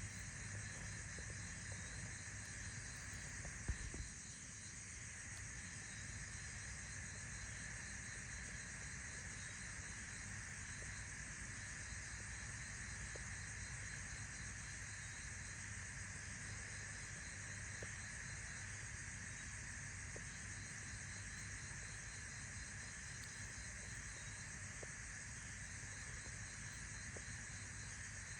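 Steady chorus of insects chirping, with a rapid pulsing call among them, over a low hum, and a single brief knock about four seconds in.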